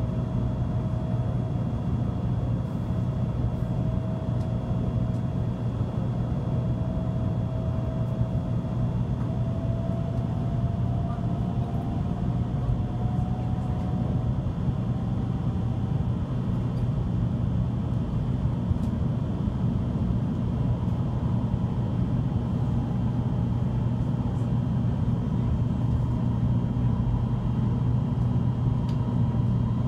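Steady running noise of a Shinkansen bullet train heard inside the passenger cabin: a constant low rumble, with a faint whine that slowly rises in pitch through the first half.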